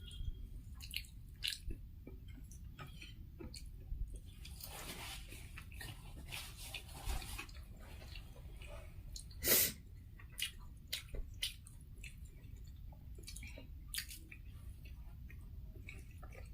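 Close-miked eating: quiet chewing with scattered small mouth clicks and smacks, and a brief louder smack about nine and a half seconds in.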